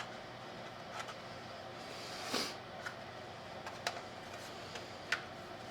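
Quiet handling noises of small rubber grommets being pushed into mounting holes by hand: a few light clicks and a brief rustle about two seconds in.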